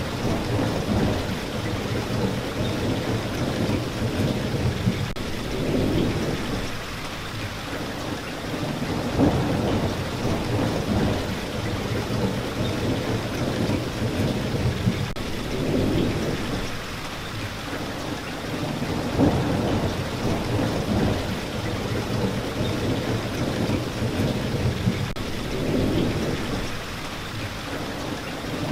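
Steady rain, with a low rumble that swells and fades every few seconds.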